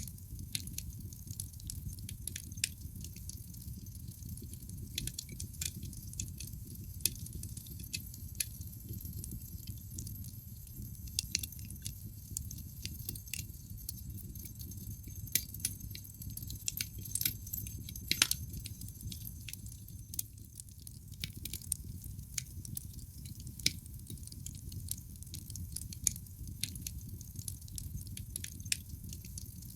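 Wood fire in a fireplace crackling: irregular sharp pops and snaps from the burning logs over a low steady rumble of the flames, with a cluster of louder pops a little past the middle.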